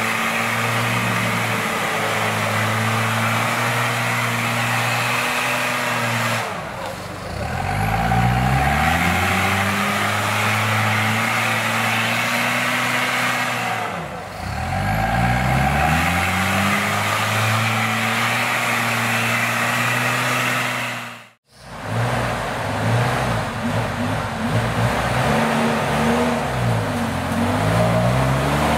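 Off-road 4x4's engine working hard at steady revs. Twice the revs drop off and climb back up. After a brief dropout in the sound, it revs up and down in quick bursts.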